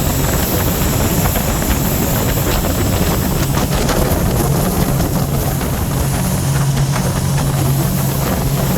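2018 Scarab 165 ID jet boat's Rotax 1503 4-TEC three-cylinder engine running steadily underway, a constant low hum, with wind buffeting the microphone and water rushing past.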